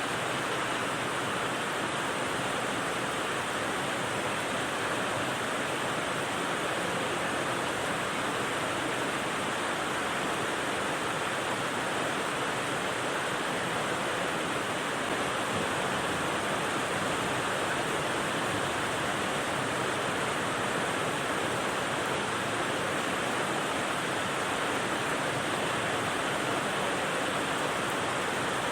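Steady rain white noise: an even, unchanging hiss with no separate drops or other sounds.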